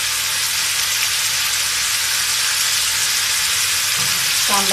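Beef pieces and spices sizzling steadily in a hot wok, an even frying hiss with no stirring.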